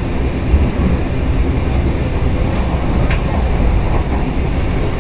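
Steady rumble of the KA Bengawan passenger train in motion, heard from inside the carriage: its wheels running on the rails.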